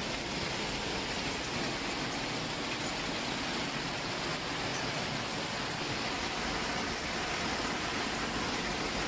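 Torrential rain and hail coming down, a dense steady hiss that holds at one level throughout.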